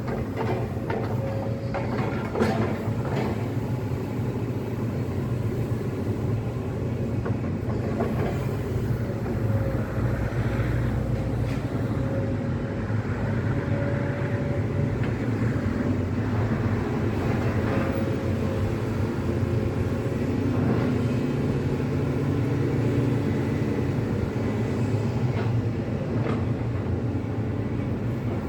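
Heavy demolition excavator running steadily under load, with a high hydraulic whine over the diesel drone and scattered knocks and clatter of breaking masonry and falling rubble, busiest in the first few seconds.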